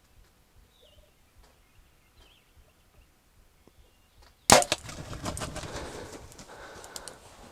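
Faint bird chirps, then a sudden sharp crack of a bow releasing an arrow at a turkey, followed by a few seconds of rustling and thumping commotion.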